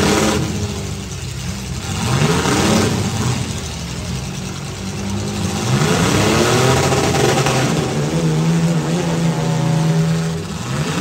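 Compact demolition derby cars' engines revving up and down several times as they drive and ram, then one engine held at a steady rev for a couple of seconds near the end.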